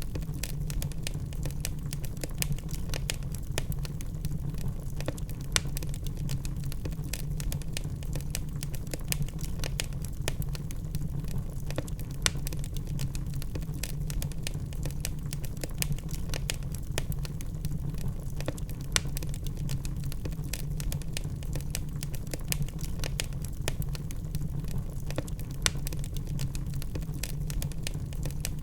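Wood logs burning in a fireplace, crackling with irregular sharp pops and snaps over a steady low rumble.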